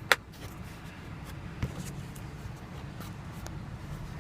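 A single sharp click as the sun visor's vanity mirror cover snaps shut, followed by a few faint handling ticks over a steady low cabin hum.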